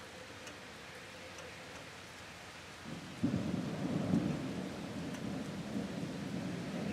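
Steady hiss of rain, then about three seconds in a low rumble of thunder sets in suddenly and rolls on.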